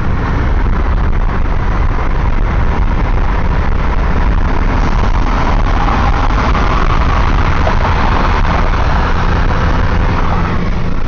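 Steady road noise from a car driving at freeway speed, with a low engine and tyre rumble and wind rush. The rush grows louder for several seconds in the second half, then drops back near the end.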